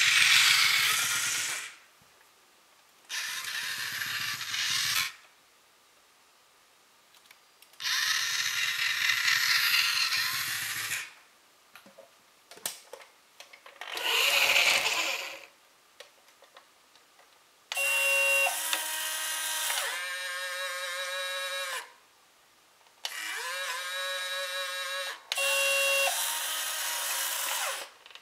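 Small electric drive motor of a radio-controlled model bus whirring in four short bursts as the model drives and stops. From about two-thirds of the way in come two longer runs of electronic bus sound effects from the model's speaker: steady beeping tones and warbling pitched sounds.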